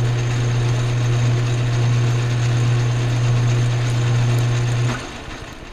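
Metal lathe running under power to drive a 1/4-20 tap into drilled stock, a steady motor hum with machine noise over it. The sound cuts off about five seconds in and dies away as the spindle stops.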